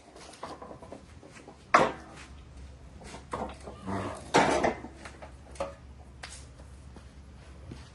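Metal tools and mower parts being handled, a string of separate clinks and knocks, the loudest about two seconds in and again about four and a half seconds in.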